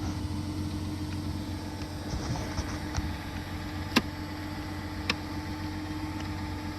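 Engine of the post hole auger machine idling steadily, with a sharp knock about four seconds in and a lighter one about a second later.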